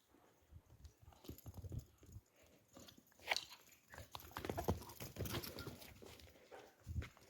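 Faint knocks and rustling of an animal moving about close by, with one sharper sound about three seconds in and a busier stretch after it.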